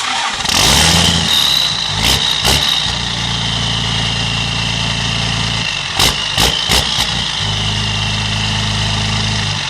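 12-valve Cummins inline-six turbodiesel running through a newly fitted exhaust, mostly idling steadily, with a high thin whine above the engine note. A few sharp knocks come about two seconds in and again around six to seven seconds, where the engine's steady note briefly breaks.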